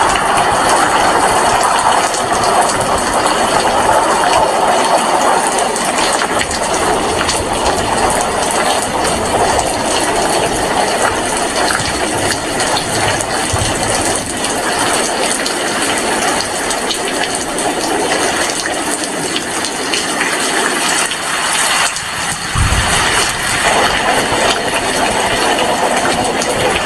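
Heavy rain falling steadily as an even rushing noise, with one brief low thump about three-quarters of the way through.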